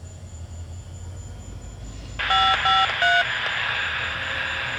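Scanner radio picking up a railroad radio transmission: three short touch-tone beeps about two seconds in, the first two alike and the third at a different pitch, then steady open-channel hiss from the keyed radio with no voice.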